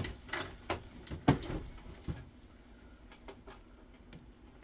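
Clunks and knocks of an induction hob's metal housing being worked against its glass-top frame as it is pulled at to lift it off. A handful of sharp knocks fall in the first two seconds, the loudest about a second and a quarter in, followed by softer handling noise.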